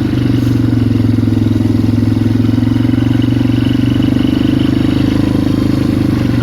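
Polaris Magnum 425 ATV's single-cylinder four-stroke engine running at a steady, even pitch while riding a snowy trail.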